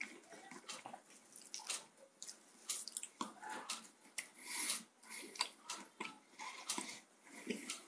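Close-up chewing and wet mouth smacks: an irregular run of short, clicky, moist sounds while food is eaten.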